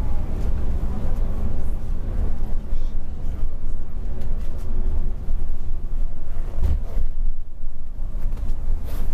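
Mercedes-Benz Travego coach on the move: a steady low rumble of engine and road noise.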